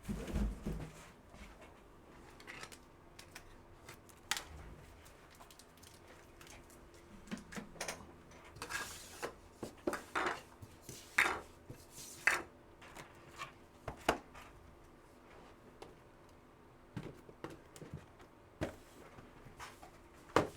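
Trading card packs and cards being handled and opened at a table: scattered light clicks, taps and short papery swishes, busiest in the middle.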